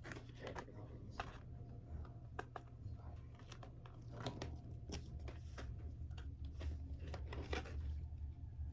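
Backing paper being peeled off skateboard grip tape, with faint irregular crackles and crinkles of the paper and tape, over a steady low hum.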